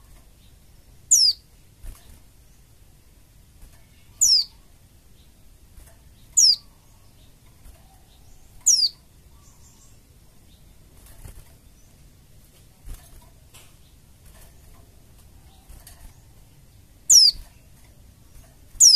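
A white-eye (pleci) giving short, high call notes that fall sharply in pitch, six in all: four spaced about two seconds apart, then a long pause, then two more near the end.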